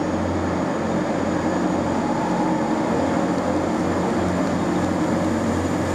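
Train running steadily with a constant low drone made of several even tones, with no change in pitch or loudness.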